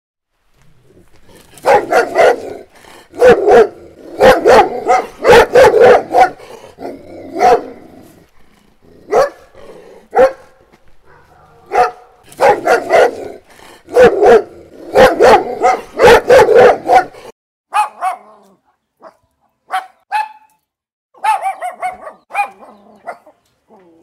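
A Doberman barking loudly in volleys of several barks each. After a short gap about seventeen seconds in, a Boston Terrier takes over with shorter, higher and more scattered barks.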